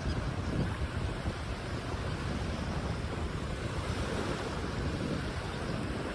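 Ocean waves breaking and washing in a steady roar of surf, with a low rumble that may include wind on the microphone.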